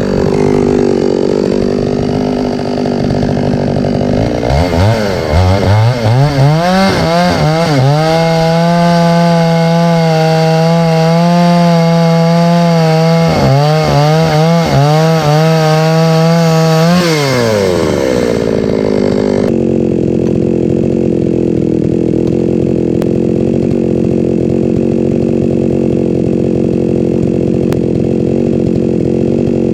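Two-stroke chainsaw engine idling, then revved several times and held at high speed for about nine seconds, with one brief dip, before dropping back to a steady idle.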